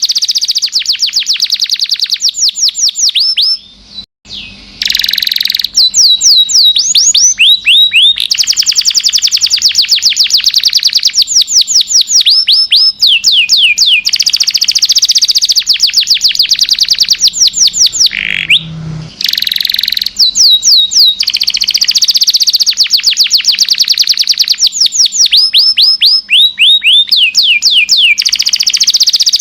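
Domestic canary singing a long, high-pitched song made of fast trills of rapidly repeated sweeping notes, changing from one trill to the next. Brief breaks come about four seconds in and again a little past the middle.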